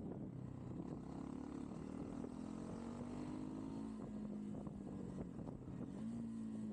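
Motorcycle engine running under way, its note rising and falling with the throttle, easing off about four seconds in and picking up again near the end.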